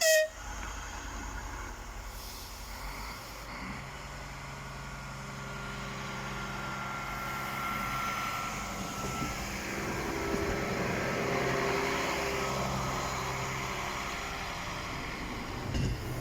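A train passing by: a steady running hum that builds up over about ten seconds and then eases off. A brief sharp click comes at the very start.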